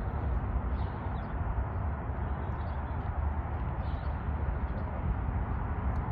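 Steady low outdoor rumble with faint, short high chirps about once a second.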